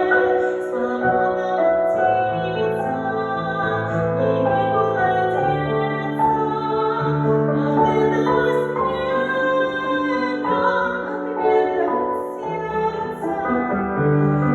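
A woman singing an aria in an operatic style over instrumental accompaniment, in sustained, held notes.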